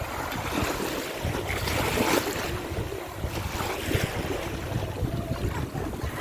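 Sea waves washing in the shallows, with wind buffeting the microphone in irregular gusts.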